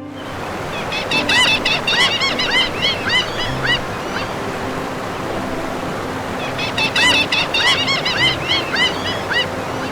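Water birds calling in two runs of quick, rising-and-falling calls, a few seconds apart, over a steady hiss like water or surf.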